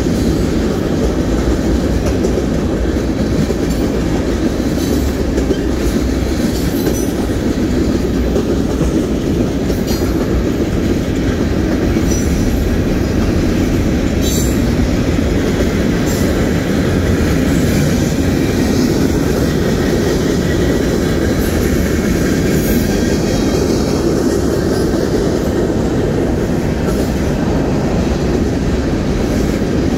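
Union Pacific freight train's cars rolling past: a steady low rumble of steel wheels on rail, with a few faint sharp high sounds scattered through.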